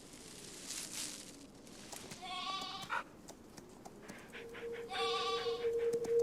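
An animal bleating twice, each bleat under a second long, about two and a half seconds apart. A steady held music tone comes in near the end.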